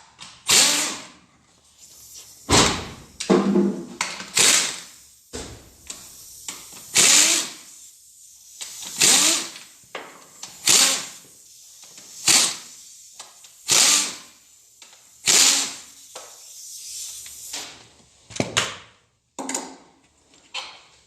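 A small power tool, such as a cordless ratchet or drill-driver, spinning bolts on a G4NA engine in about a dozen short runs, one every second and a half to two seconds.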